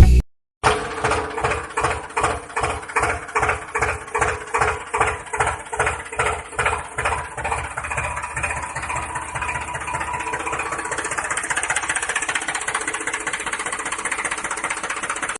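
Tractor engine chugging in even beats, about three a second, then quickening and smoothing into a steady run after about eight seconds.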